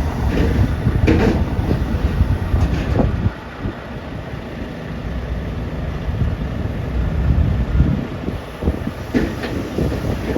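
Tractor-trailer rumbling as it maneuvers in reverse toward a loading dock, with a few sharp clanks. The low rumble drops about three seconds in, then builds again.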